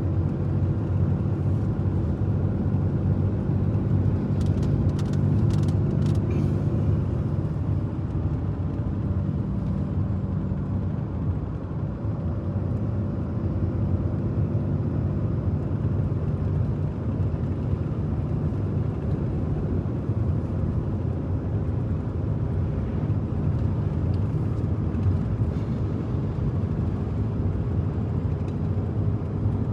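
A truck driving steadily on the highway, with continuous engine and road rumble. A few faint clicks come about five seconds in.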